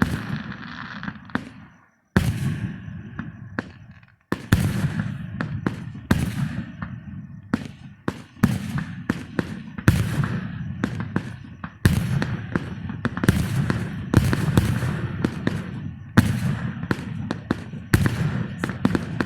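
Fireworks going off in rapid succession: dense sharp cracks and crackling over a heavy low rumble of booms. The sound cuts out to silence briefly twice, about two and four seconds in.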